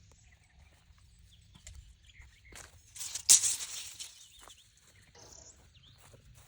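Miter saw making a short cut through a board, a loud noisy burst lasting about a second and a half that starts about two and a half seconds in, with a sharp crack near its middle. Faint bird chirps underneath.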